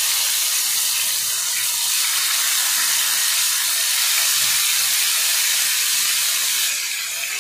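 Marinated chicken pieces sizzling in shallow hot oil in a non-stick frying pan, a steady hiss as more pieces are laid in; it eases slightly near the end.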